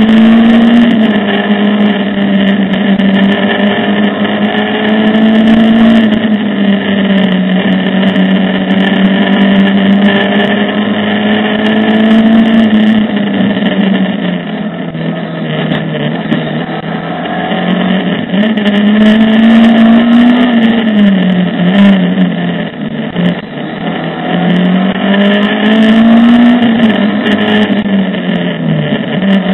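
Mercedes 190E rally car's engine running hard at high revs, heard from inside the cabin; its note climbs and drops back again and again with throttle and gear changes, easing off twice, about halfway through and again a little later.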